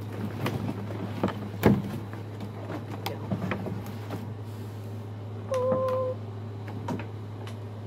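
Hands handling a plastic toy robot and its packaging: scattered clicks and knocks, the loudest a sharp knock just under two seconds in, over a steady low hum. A brief steady beep-like tone sounds about two-thirds of the way through.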